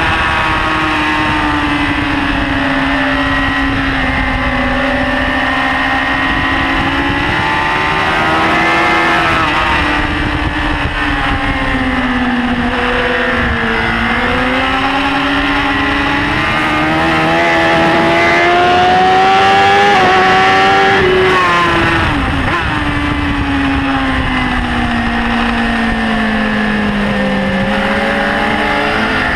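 BMW S1000RR's inline-four engine running hard at racing revs, its pitch sinking and climbing as the throttle is worked through the corners. The pitch drops suddenly about 21 seconds in, then falls away again near the end.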